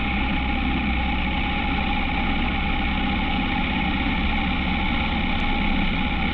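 Honda H'ness CB350's single-cylinder engine running steadily, with no change in pitch or level.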